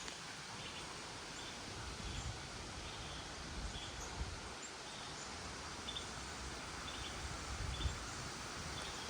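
Gusty wind from a hurricane's outer bands rushing through foliage, with low buffeting gusts on the microphone every second or two. Faint, short, high chirps repeat about twice a second throughout.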